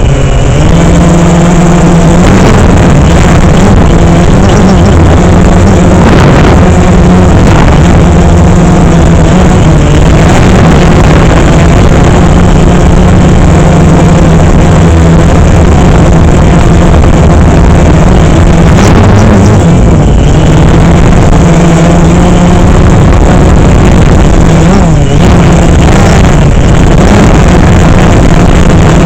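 DJI Phantom 3 quadcopter's motors and propellers humming loudly in flight, a steady buzzing drone whose pitch wavers as the aircraft manoeuvres, most clearly at the very start and again near the end.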